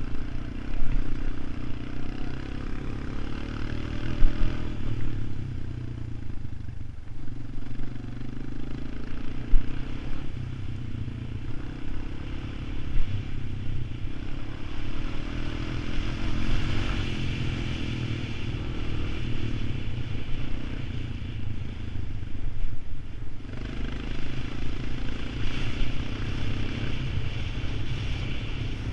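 ATV engine running under varying throttle, easing off briefly twice and picking back up, with some clatter over it.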